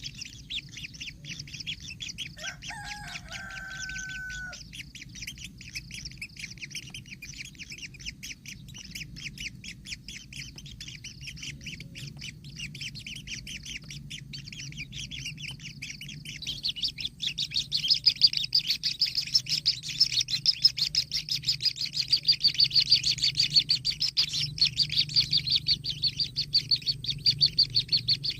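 Kingfisher nestlings begging with a rapid, continuous chattering that grows clearly louder about two-thirds of the way in. A brief steady whistle-like tone sounds about three seconds in.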